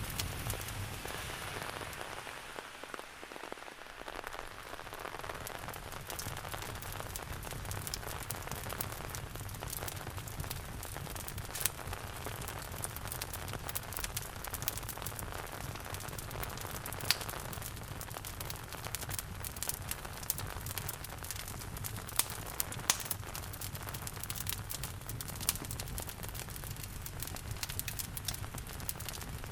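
Steady rain falling, mixed with the crackling of a wood fire in a fireplace: sharp pops and snaps scattered throughout, a few of them loud.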